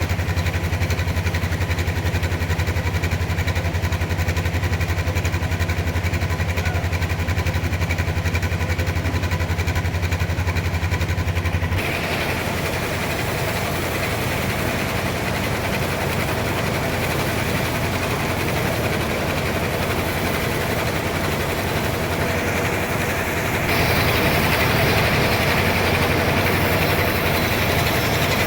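Sawmill machinery running steadily with a low engine-like hum. About twelve seconds in the sound shifts to a rougher, noisier running, and it grows louder and hissier about twenty-four seconds in.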